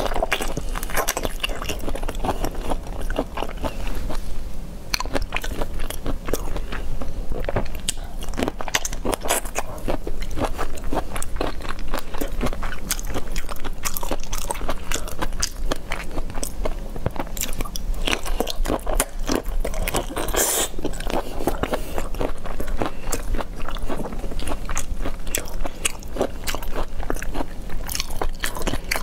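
Close-miked eating of shell-on prawns in chili sauce: biting and chewing, a dense, irregular run of crunchy clicks and crackles from the shells, with wet mouth sounds.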